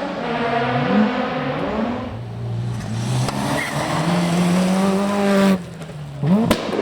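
Rally car engine at full stage pace, its revs climbing and falling through gear changes, then the throttle closes abruptly about five and a half seconds in, followed by quick rising blips and a few sharp cracks near the end.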